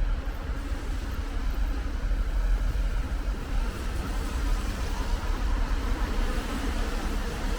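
Steady city street noise of road traffic: a continuous low rumble under an even hiss.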